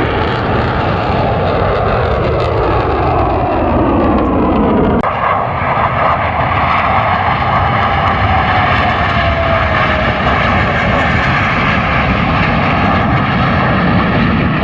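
Blue Angels jet fighters flying past at low altitude, loud jet engine noise with the pitch falling as they go by. The sound changes abruptly about five seconds in, and a second slow falling tone follows as the jets pass again.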